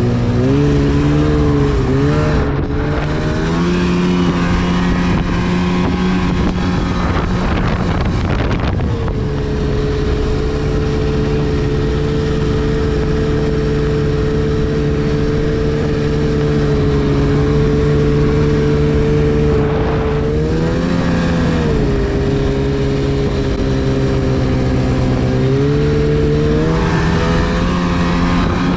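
2010 Arctic Cat CFR 1000 snowmobile's two-stroke twin engine running under throttle. The pitch shifts up and down in the first few seconds, holds steady for about ten seconds, then dips and climbs again as the throttle changes.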